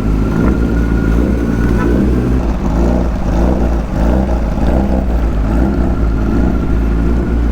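Sport motorcycle engine running at a steady pace while riding, with a low rumble underneath and its pitch shifting a little as the throttle changes.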